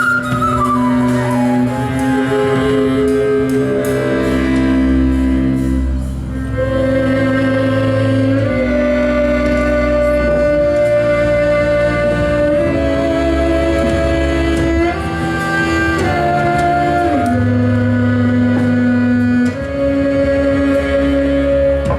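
Live band music: sustained melody notes moving in steps over a steady low bass line, opening with a slow falling glide in the melody.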